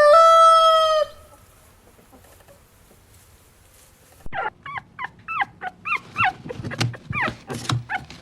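The end of a rooster's crow, a long held note that stops about a second in. After a pause, a quickening series of short, high, yelping animal calls.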